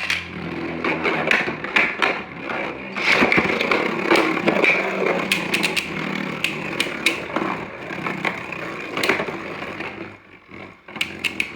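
Beyblade Burst spinning tops, Lucifer The End Drift among them, whirring and clashing in a plastic stadium after a launch: a steady whir broken by many sharp hits. It dies down about ten seconds in, followed by a few quick clicks near the end.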